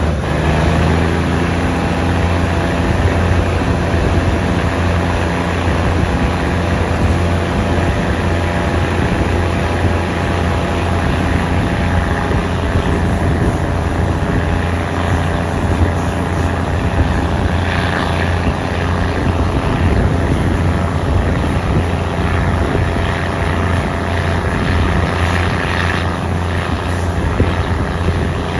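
Diesel passenger train running along the track, heard from an open coach window: a steady low engine drone over wheel-on-rail and wind noise.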